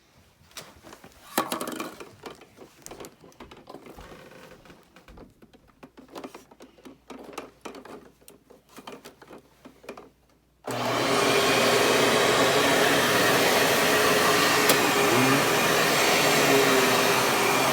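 Scattered clicks and knocks of the machine being handled, then nearly eleven seconds in a Dirt Devil Featherlite bagless upright vacuum switches on abruptly and runs with a loud, steady motor whine.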